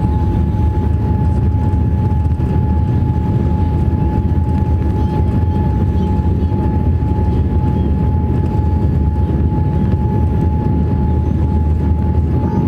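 Steady cabin noise inside a Boeing 787-8 airliner: a constant low rumble of engines and airflow with a thin, steady whine running through it.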